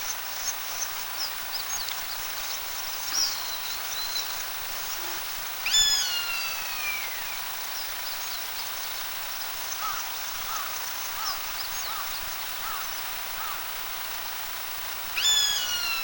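An Eastern buzzard calls twice in alarm, about nine seconds apart. Each call is a long, downslurred mew that falls in pitch. Under the calls is a steady background hiss with faint, short chirps.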